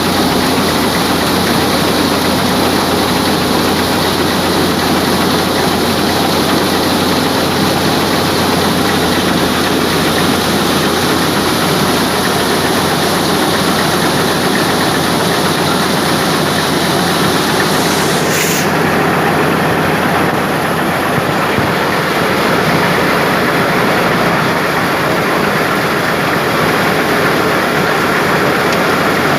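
Tractor-driven wheat thresher running steadily: a loud, unbroken mechanical noise of the machine and tractor engine working together. A brief sharp click cuts through about 18 seconds in.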